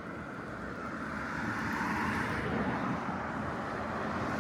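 Road traffic: a passing vehicle's tyre and engine noise, slowly growing louder.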